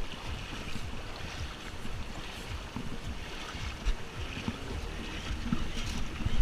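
River water running, with wind buffeting the microphone and a few scattered knocks.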